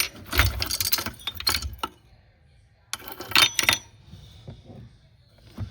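Hard objects clinking and rattling as they are handled, in two clattering bursts of a second or two each, with a short pause between them.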